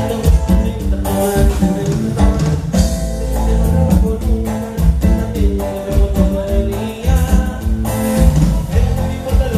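Live band playing a Latin song, with guitar, bass and drum kit over a steady beat and singing.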